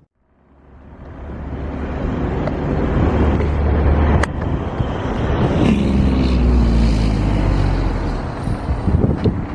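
Jet airliner passing close by: its engine roar builds over the first few seconds and stays loud, its pitch falling as it goes past, with a sharp click about four seconds in.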